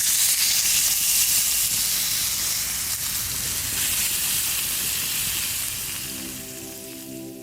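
Food sizzling hard in a hot frying pan, a dense steady hiss that fades near the end as soft music with held tones comes in.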